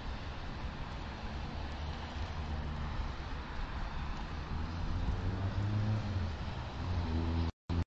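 Car engine and road noise heard inside a car through a dashcam microphone. The engine note climbs slowly as the car pulls forward in traffic, then the sound cuts off abruptly near the end.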